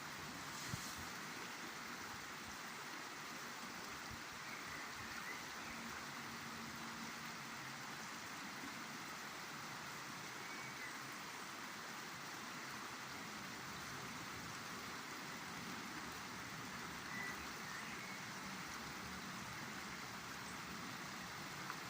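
A river flowing with a steady, even rush of water.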